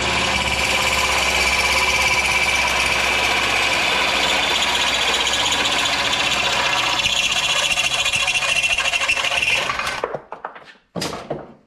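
An electric power tool runs steadily for about ten seconds at a fixed pitch, then stops suddenly, followed by a few short knocks.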